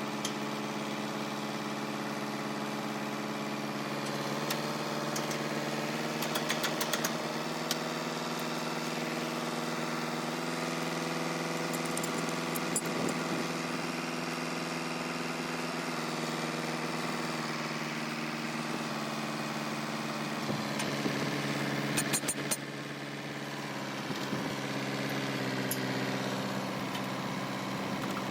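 Tractor's diesel engine running at a steady speed, with a few brief clicks and rattles over it. About three quarters of the way through, the engine note dips briefly, then settles again.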